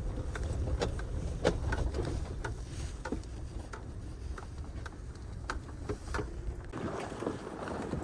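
Pickup truck running: a steady low engine and road rumble with scattered small clicks and rattles over it. The rumble eases off near the end.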